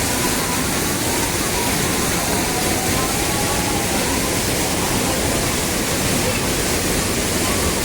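Steady, loud rush of water pouring down a waterfall.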